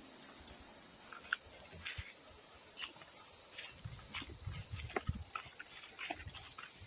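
Steady, high-pitched chorus of insects, one unbroken shrill drone, with faint scattered clicks and low thuds around it.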